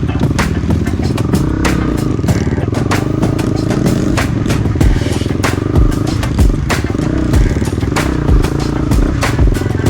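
Off-road trail motorcycle engine running with a wavering pitch as it is ridden, with frequent sharp clattering clicks and several heavy low thuds in the second half.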